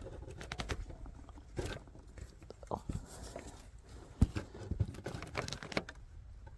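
Scattered light clicks, scrapes and knocks of hand tools and parts being handled during fuel-line work, with one sharper knock about four seconds in.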